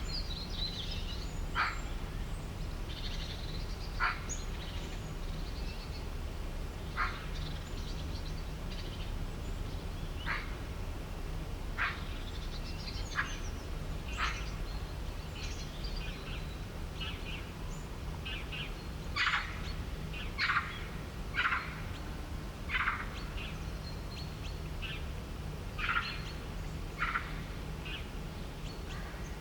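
Birds calling in short, sharp chirps at irregular intervals, busiest a little past the middle. A steady low hum runs underneath.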